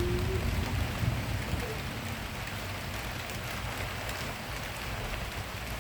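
Rain falling steadily in a thunderstorm, an even hiss, with the low rumble of thunder dying away over the first second or two.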